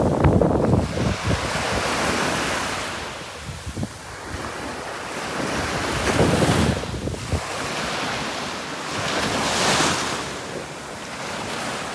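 Sea waves breaking and washing up on a sandy beach, the surf swelling and falling back every few seconds, with wind buffeting the microphone.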